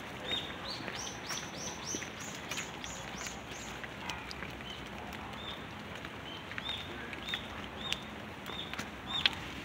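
A bird chirping over and over, short high notes about two or three a second, falling silent for a couple of seconds midway and then starting again, over a steady hiss of rain.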